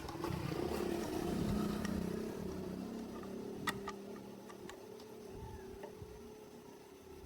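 A motor running steadily, louder over the first two seconds and then easing off, with a few sharp clicks about halfway through.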